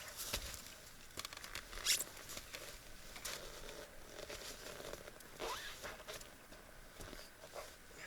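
Skis sliding and scraping through snow in uneven strokes.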